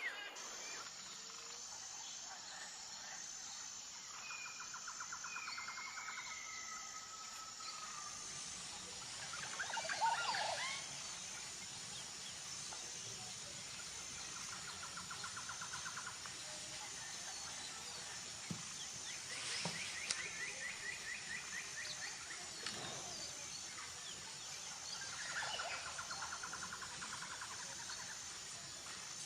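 Nature ambience of birdsong over a steady high insect drone: several birds give short rapid trills again and again, with a few whistled notes, while an insect keeps up a thin, evenly pulsing high buzz. A brief louder call or rustle comes about ten seconds in.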